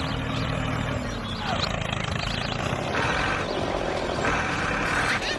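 Steady low engine-like drone of a miniature tractor driving, with a hissing noise that swells and fades every second or so.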